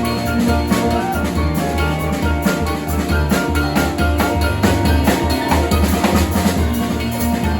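Jazz combo playing live: a drum kit keeps up frequent hits over piano and keyboard chords and a steady low bass line.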